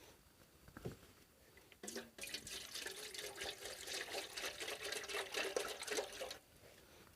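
Liquid being poured into a container, a splashy trickle with a steady ringing tone that starts about two seconds in, lasts about four and a half seconds and stops abruptly.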